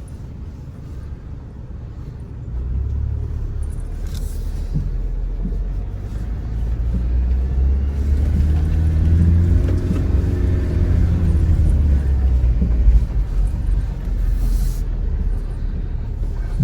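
Low rumble of a 2025 Chevy Colorado ZR2's 2.7-litre turbo four-cylinder crawling over rough trail in low range, with terrain mode holding the truck back on engine braking. The rumble grows louder a few seconds in, and its note rises and falls in pitch about halfway through, with a few faint knocks.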